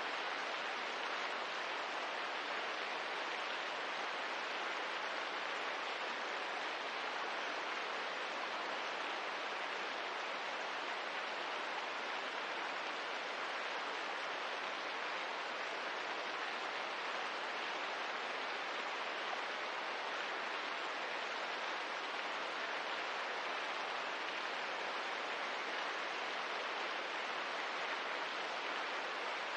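Steady rain ambience: a constant, even hiss of falling rain with no single drops, crackles or knocks standing out.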